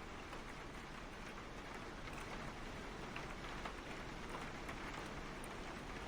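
Steady rain falling on a car, heard from inside, with many scattered individual drop hits over an even hiss.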